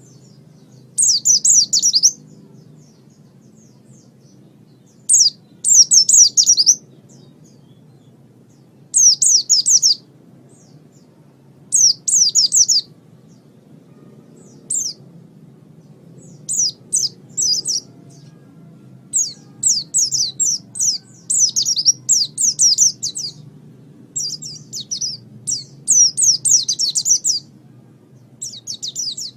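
White-eye (pleci) singing in bursts of fast, high chattering trills about a second long. A few seconds of pause separate the bursts at first, and they come closer together in the second half. Beneath them runs a faint steady low hum.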